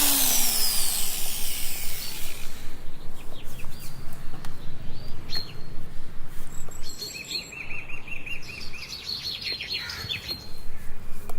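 A power tool spins down with a falling whine in the first second. Small birds then chirp, with a quick trill about seven seconds in.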